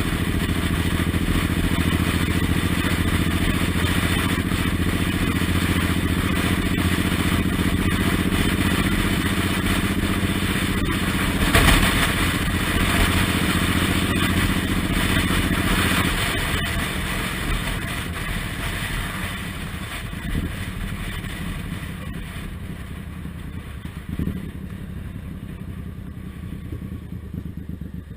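Suzuki Intruder M1800R's V-twin engine running steadily while the bike rides along, with wind and road noise. A brief louder burst comes about twelve seconds in. Past the middle the engine sound and overall level fall away as the bike eases off.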